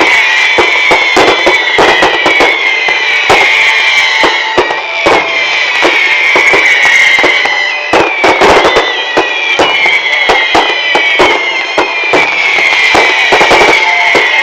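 Rapid, irregular firecracker bangs crackling over loud music, whose melody falls in repeated phrases about every two seconds.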